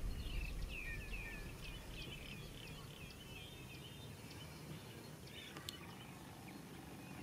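Small birds chirping outdoors: a quick series of short, down-slurred chirps, a few a second, that thins out after about two seconds into scattered calls over faint outdoor background. Background music fades out in the first second or two.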